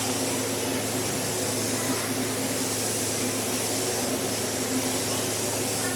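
Car wash machinery running steadily: a constant motor hum under a hiss.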